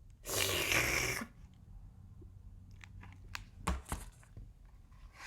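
A page of a picture book being turned: a paper rustle of about a second near the start, followed a few seconds later by a couple of faint clicks as the book is handled.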